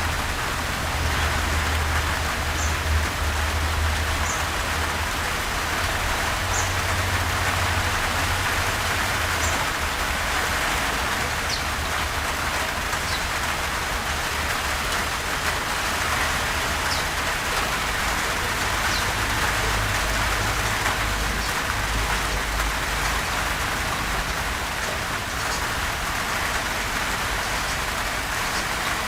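Gentle steady rain falling, an even hiss with a few faint sharper drips now and then. A low rumble sits underneath and comes and goes.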